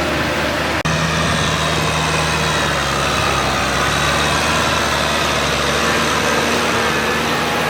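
Kubota tractor's diesel engine running at a steady speed, with a brief break about a second in where the audio cuts.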